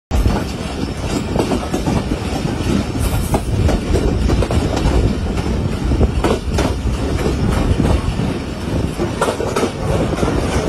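Passenger train running along the track, heard from a coach window: a steady rumble of wheels on rails with irregular clicks and clacks throughout.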